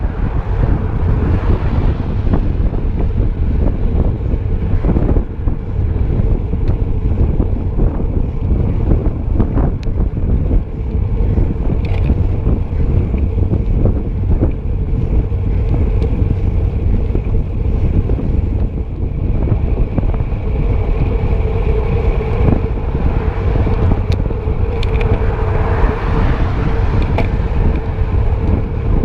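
Wind buffeting the microphone on a moving road bike, loud and steady, with a faint steady hum that grows louder about twenty seconds in.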